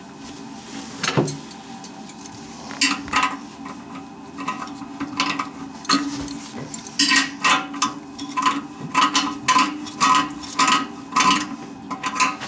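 Sharp metallic clinks and knocks of hand work on a toilet installation: a few scattered strikes, then a quicker run of about two a second in the second half.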